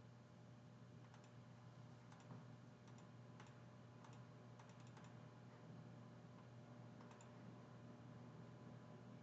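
Faint, irregular clicking of a computer mouse and keyboard, a dozen or so clicks with gaps between, over a low steady hum.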